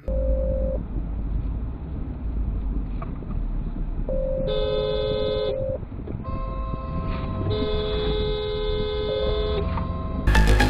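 Car horns honking over a steady low rumble of road and engine noise: a short blast, then two long blasts of a second or more and several seconds, sounding two notes together.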